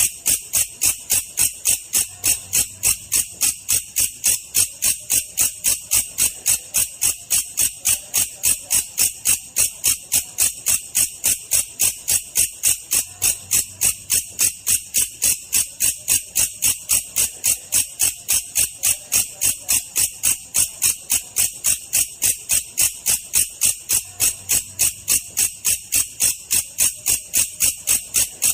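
Belalang kecek katydid call in a slowed-down version: bright, sharp chirps repeated evenly at about three a second without a break.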